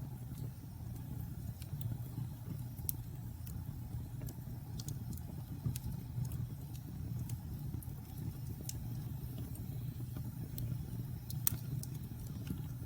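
Wood fire burning in a fireplace: a steady low rumble of flames with scattered crackles and pops, one sharper pop near the end.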